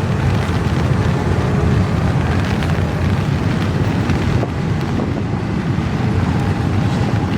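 Long, slow intermodal freight train rolling past: a steady low rumble of the cars, with faint scattered wheel clicks.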